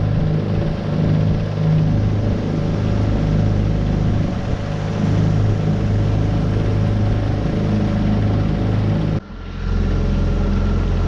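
A 9.8 hp Tohatsu four-stroke outboard motor running steadily, pushing a small V-bottom boat. About nine seconds in the sound drops out for a moment, and after that the engine note changes to a steadier, lower pattern.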